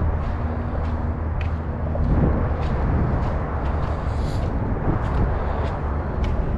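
Walking footsteps on a wet dirt trail, about one or two a second, over a steady low rumble of distant traffic.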